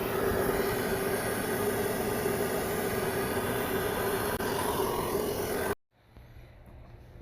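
A steady, loud rushing noise with a low hum, cut off abruptly about six seconds in, then quiet room tone.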